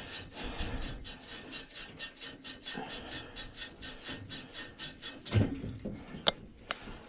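A hand tool scraping back and forth on pipe in fast, even strokes, about five a second, stopping a little after five seconds in. A thump and a sharp click follow.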